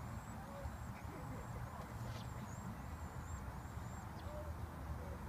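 A small bird calling a quick run of about six high, arched notes over the first three and a half seconds, above a steady low rumble.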